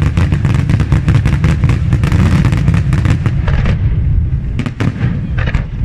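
Daytime fireworks: a rapid, dense volley of aerial shells bursting in many sharp bangs over a steady low rumble. The volley thins after about four seconds to a few separate loud reports.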